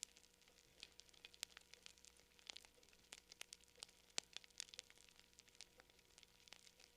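Campfire crackling faintly: irregular sharp pops and snaps of burning wood, several a second, over a soft hiss.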